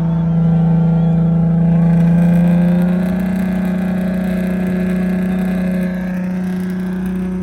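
A car engine held at steady high revs, its pitch stepping up slightly about two to three seconds in and dropping a little in loudness about six seconds in.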